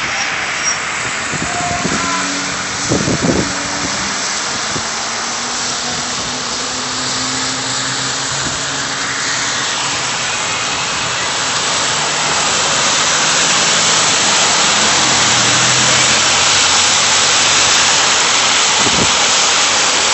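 Steady rushing of snowstorm wind and street traffic, a faint engine hum underneath, the rush growing louder about halfway through. A couple of short knocks come in the first few seconds.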